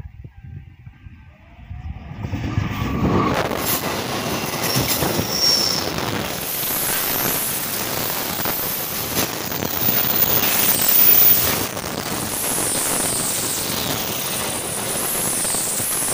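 A diesel-hauled passenger train passing close by at speed. It comes in loud about two seconds in, and the coaches' wheels then clatter rhythmically over the rail joints, with high-pitched squealing from the wheels on the rails.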